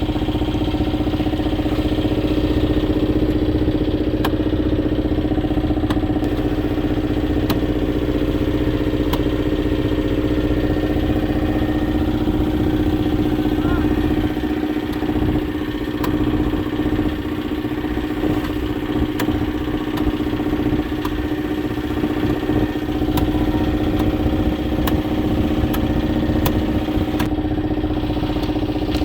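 Boat engine running steadily at a constant speed, a loud even hum.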